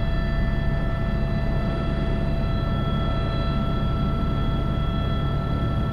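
Airbus H125 helicopter heard from inside the cockpit: its single turboshaft engine and rotor run steadily at high power in a climb with a sling load, a deep rumble under several steady high-pitched whines. One whine grows stronger about a second and a half in.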